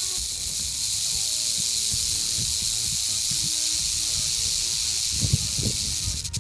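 Southern Pacific rattlesnake's rattle buzzing, a steady high-pitched hiss that cuts off suddenly near the end, with a few low thumps just before it stops.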